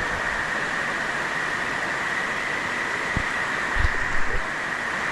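Heavy rain falling in a steady, loud hiss, with a few soft thumps about three to four seconds in.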